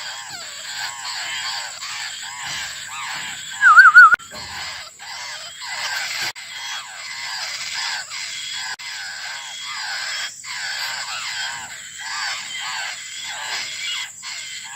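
Young laughingthrushes begging for their mother: a continuous chorus of harsh, rapidly repeated calls. A brief, loud warbling whistle stands out about four seconds in.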